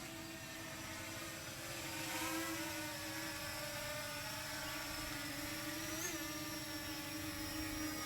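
Parrot Anafi quadcopter's propellers whining in flight, a steady multi-tone hum that grows slowly louder as the drone flies closer, with brief rises in pitch about two and six seconds in.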